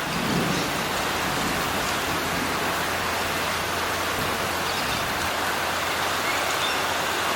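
Heavy thunderstorm rain falling, a steady even hiss.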